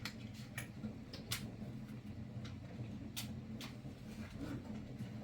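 A few scattered sharp clicks and light taps, loudest about a second in and about three seconds in, over a low steady hum.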